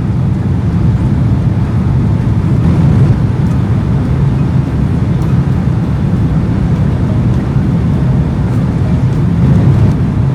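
Boeing 767 cabin noise: a steady, loud, low rumble of engines and rushing air, with no distinct thump or change.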